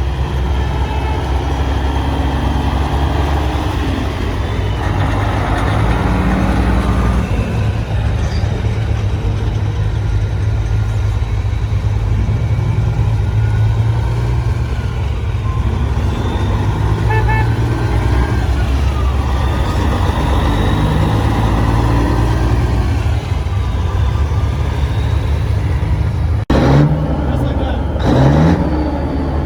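Heavy trucks' engines running with a steady low rumble, voices in the background. After an abrupt change near the end, an engine note rises and falls.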